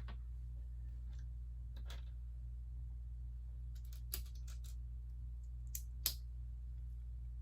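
Plastic Lego pieces clicking against each other and snapping together as they are handled and pressed on, in scattered single clicks with a quick cluster around four seconds in. The loudest snap comes about six seconds in. A steady low hum runs underneath.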